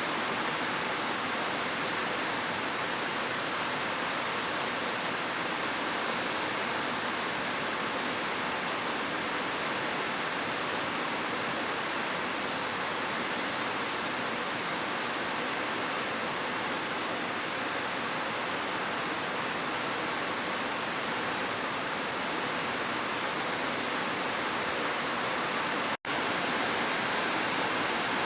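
Heavy rain falling in a steady, even rush, with no separate drops standing out. About two seconds before the end it cuts out to silence for an instant and comes straight back.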